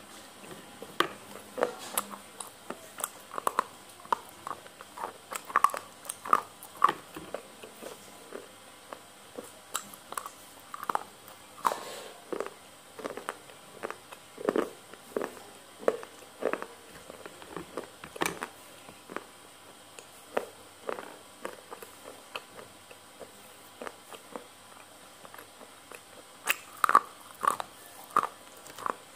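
Close-miked chewing of spicy noodles, with the microphone held right at the lips: irregular wet smacks and mouth clicks, several a second at times, with short pauses between bites.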